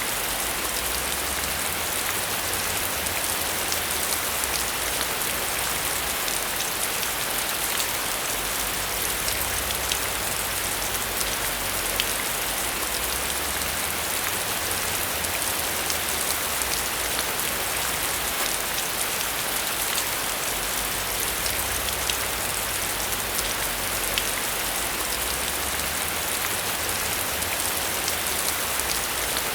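Steady rain falling on a surface, a constant hiss with many fine drop ticks.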